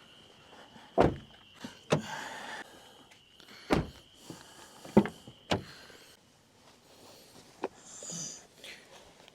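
Handling noise inside a car: about six sharp knocks and thumps over some seven seconds, the loudest about a second in and near the middle, as things are moved and set down.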